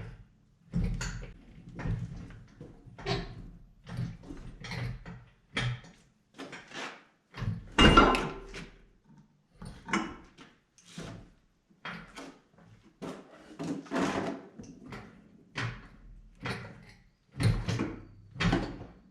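Engine hoist being worked to lift an engine out of a car: a run of irregular metal clunks and creaks, one or two a second, with one louder clank about eight seconds in.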